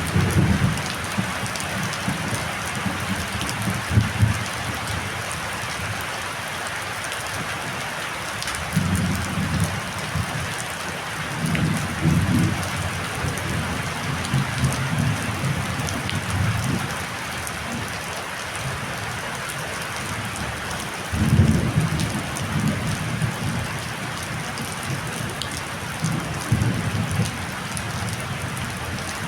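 Heavy rainstorm: a steady hiss of rain, with low rumbling surges coming and going every few seconds.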